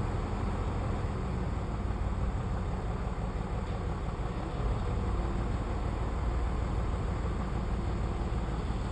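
Diesel engine of heavy earthmoving machinery running steadily with a low rumble.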